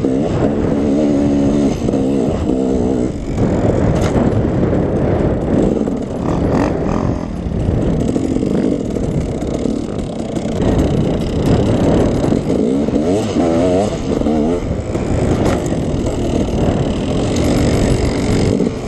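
KTM 300 two-stroke dirt bike engine being ridden, its pitch rising and falling again and again with the throttle. A few sharp knocks sound here and there.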